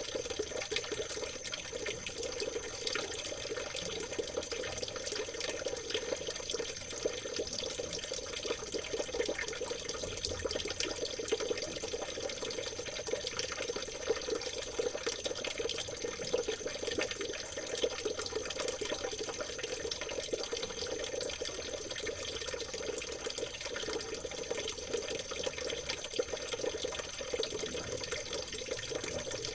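Shallow stream water trickling and babbling over stones: a steady, even rush made of many tiny splashes, unchanging throughout, with a thin steady high tone above it.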